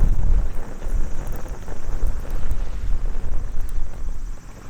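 Wind buffeting the microphone in a loud, uneven low rumble, with a few faint crackles from a small wood campfire.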